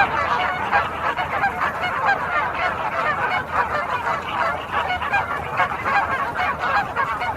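Large colony of greater flamingos calling all at once: a dense, unbroken chorus of goose-like honks that starts abruptly.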